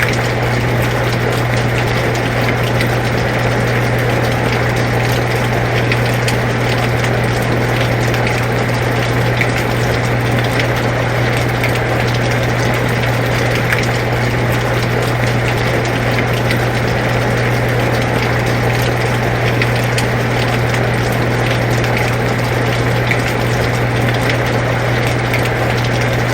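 Air conditioner running with a steady low hum, mixed with the even hiss and fine pattering of falling rain.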